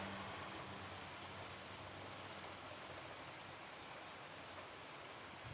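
Steady, faint rain: an even hiss of falling rain.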